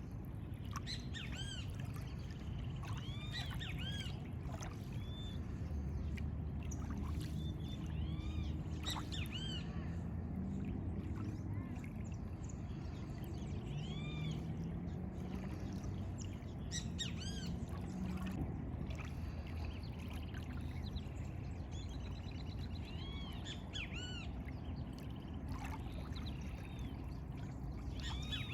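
Birds calling, many short arched chirps repeated at irregular intervals over a steady low background noise. A low hum drifts up and down through the middle.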